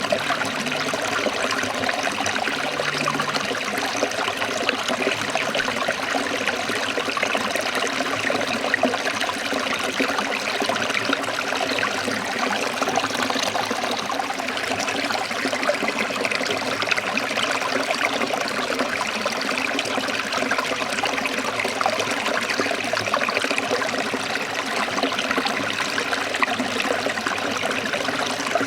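Forest stream of water trickling and splashing steadily over rocks, an even, unbroken rush.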